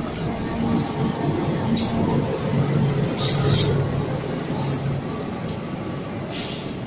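CC 201 diesel-electric locomotive running past with a steady engine drone that fades after about five seconds, as its passenger carriages roll by. Sharp metallic clacks and brief squeaks from the wheels come every second or so.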